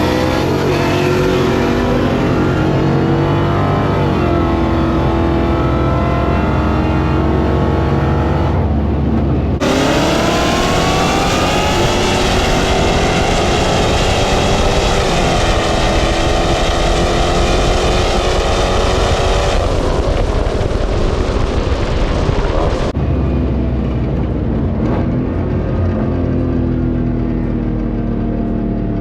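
Dodge Hellcat's supercharged V8 at full throttle in a roll race, pulling hard with its pitch rising and dropping through gear changes. A loud rushing noise sets in suddenly about ten seconds in and stops suddenly about thirteen seconds later.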